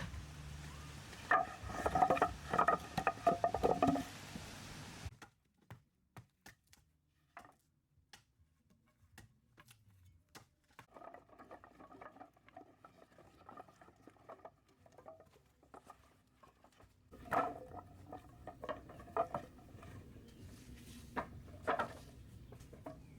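Irregular taps, clicks and scraping of hand work with tools and materials, with a denser, louder clatter near the start and again about two-thirds of the way through, and an abrupt cut to quieter, sparser ticking about five seconds in.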